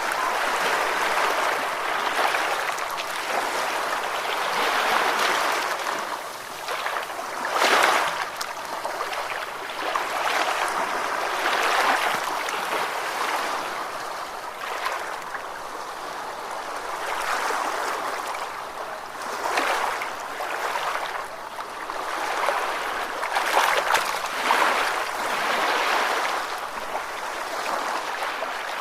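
Ocean waves washing in and drawing back, a steady rush of surf that swells and ebbs every few seconds. The strongest surge comes about eight seconds in.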